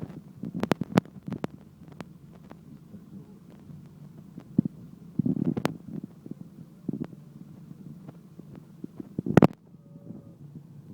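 Low steady rumble of wind buffeting the microphone, with several sharp knocks of handling noise. The loudest knock comes near the end, and the sound briefly drops out after it.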